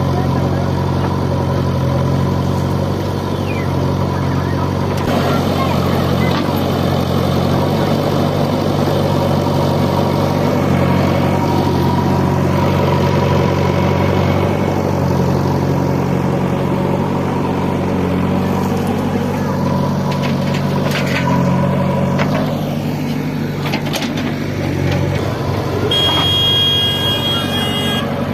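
Heavy diesel machine engine running steadily, with a high steady beep lasting about two seconds near the end.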